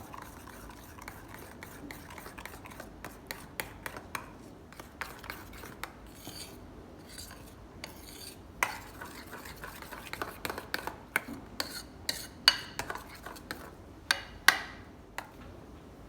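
A metal serving spoon clinking, knocking and scraping against a pot or dish in irregular strokes, louder knocks about halfway through and near the end, as cooked biryani rice is stirred and served.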